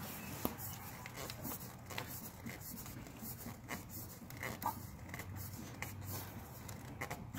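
Small irregular clicks and scrapes of a new oil filter being threaded onto a Kawasaki H2 motorcycle engine by hand.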